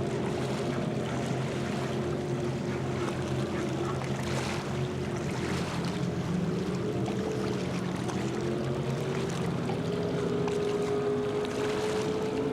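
Race boat engines running, several engine notes heard at once, one of them climbing steadily in pitch over the last few seconds, with wind noise on the microphone.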